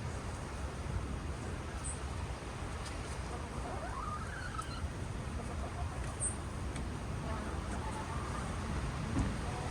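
Gusting wind buffeting the microphone as a steady low rumble, with a hen's soft call about four seconds in.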